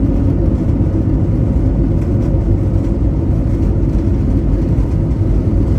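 Steady, loud low rumble of an Airbus A320's engines and airframe, heard from inside the passenger cabin.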